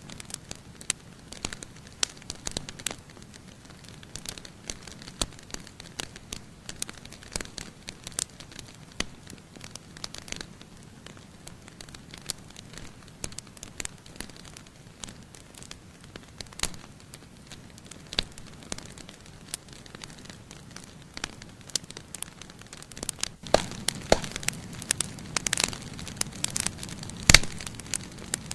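Wood campfire burning, crackling with frequent sharp pops. About 23 seconds in the crackling grows denser and louder, and there is one loud pop near the end.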